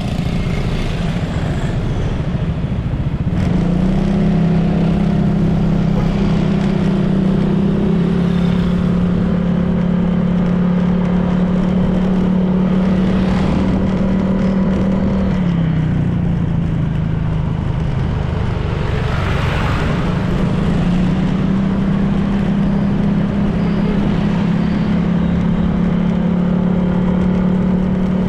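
Honda PCX 160 scooter's single-cylinder engine running under way, over road and wind noise. The engine note rises about three seconds in, eases off briefly near the middle, then picks up again. Two brief whooshes come in the second half.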